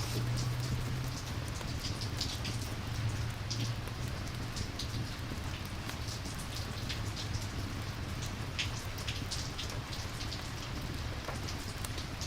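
Steady rain ambience: an even hiss of falling rain with scattered sharp ticks of drops and a low steady rumble underneath.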